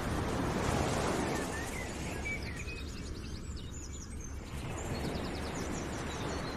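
Outdoor ambience: a steady rushing noise with birds chirping in quick trills, about two seconds in and again about five seconds in.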